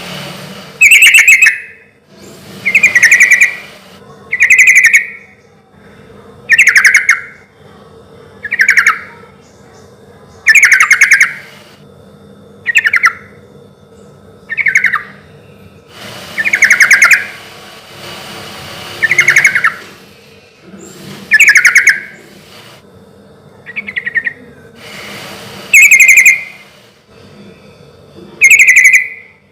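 Yellow-vented bulbul (trucukan) singing loudly: short bubbling phrases repeated about every two seconds.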